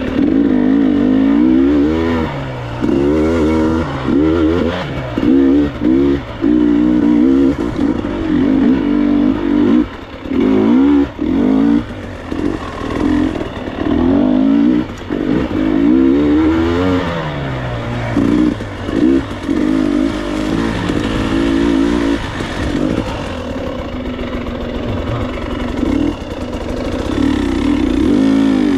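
Enduro motorcycle engine revving up and down over and over, the throttle opened and shut every second or two as the bike is ridden off-road.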